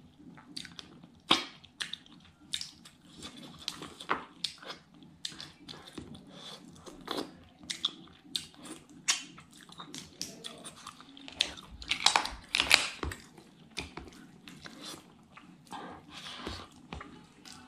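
Close-up eating sounds: a person chewing clam meat and rice, with many short, irregular mouth clicks, loudest in a run about twelve seconds in.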